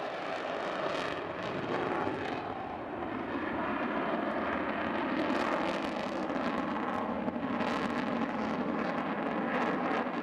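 Fixed-wing aircraft engines heard as a steady, even noise.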